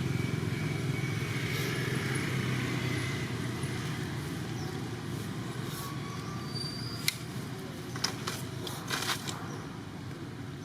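Low, steady rumble of a motor vehicle's engine, slowly fading away, with a few sharp clicks near the end.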